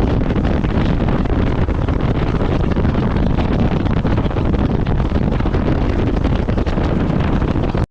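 Heavy wind rushing over the microphone on a moving boat, a steady loud roar with the boat's running noise beneath it, cutting off suddenly at the very end.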